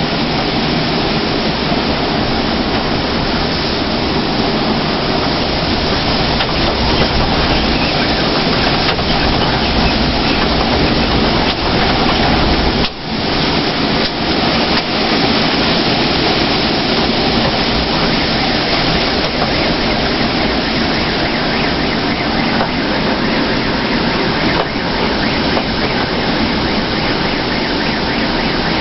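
Hurricane-force cyclone wind blowing hard, a loud steady rushing noise with heavy low rumble, easing briefly about thirteen seconds in.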